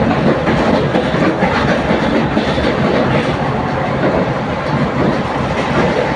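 Passenger train carriage running along the track: a steady, loud rumble and rattle of the wheels on the rails, with a few clicks of wheels passing over rail joints.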